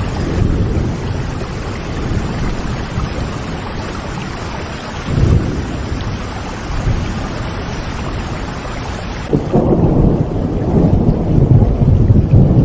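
Rain falling steadily with rolls of thunder: a low rumble about five seconds in, and a louder, longer one from about nine seconds on, when the hiss of the rain thins out.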